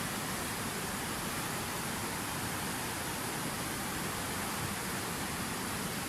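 Water falling steadily in a fountain waterfall: an even, unbroken hiss.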